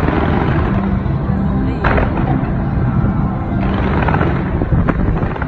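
Aerial fireworks bursting, with sharp bangs near the start, about two seconds in and near the end, over a continuous crackle of exploding shells. Music plays along.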